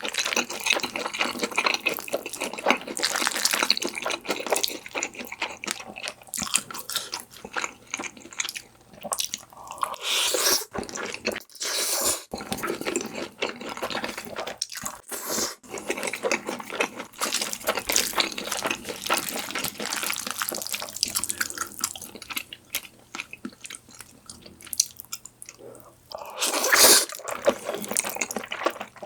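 Close-miked wet eating sounds from saucy Korean-Chinese food, black bean noodles and sweet-and-sour fried pork: chewing, lip smacks and slurps with many small sticky clicks. A louder burst comes near the end.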